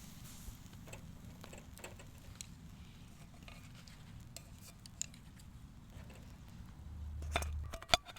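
Scattered light clinks and taps of eating utensils against camp cookware, with a louder clatter about seven seconds in and one sharp click just before the end.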